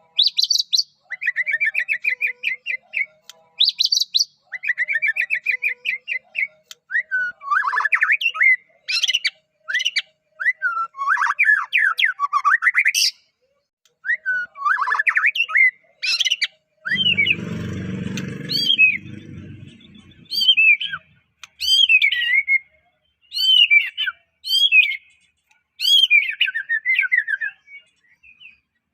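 White-rumped shama (murai batu, Medan type) singing a long, varied song of trilled phrases and sharp whistled sweeps, separated by short pauses. About two-thirds of the way through there is a brief low rustling noise under the song.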